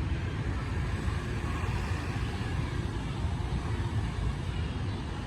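Steady low engine rumble without a break, with a fainter hiss higher up.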